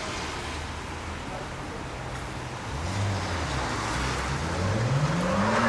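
Jeep Wrangler's engine running steadily, then rising in pitch over the last second or so as it is revved.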